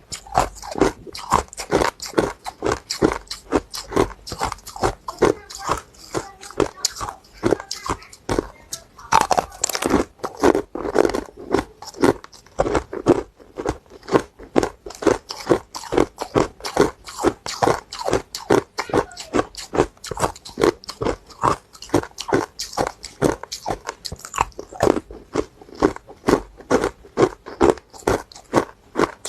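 Hard ice being bitten and chewed close to the microphone: a quick, steady run of crisp crunches, a few every second.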